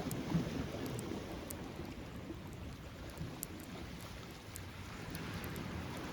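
Beach bonfire crackling: scattered small sharp pops over a steady low rumble from the surf and wind.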